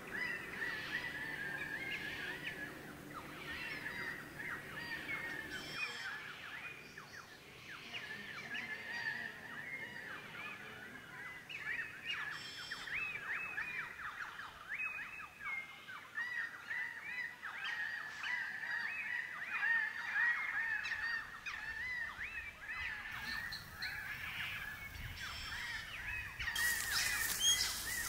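Wild birds chirping and calling, many short sweeping calls overlapping over a steady high tone. A hissing rustle comes in near the end.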